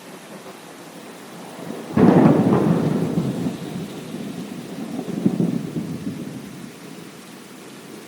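Steady rain with a sudden clap of thunder about two seconds in that rolls on as rumbling, swells again a few seconds later, then dies away back into the rain.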